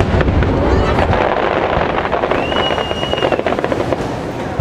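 Fireworks display going off in a dense volley: many sharp cracks and crackling over a deep continuous rumble. A high, steady whistle sounds for about a second, about halfway through.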